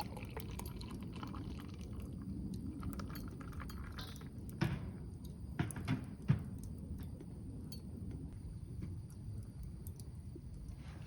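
A few light clinks and taps of a glass and tableware being handled, bunched together about halfway through, over a low steady background.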